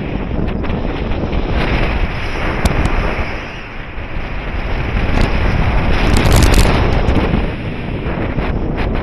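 Airflow rushing over the microphone in paraglider flight, a loud rough wind noise that swells and eases in gusts, strongest about two-thirds of the way through.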